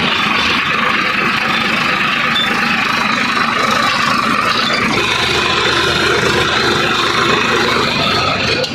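Swaraj 744 XT tractor's diesel engine running steadily at an even speed.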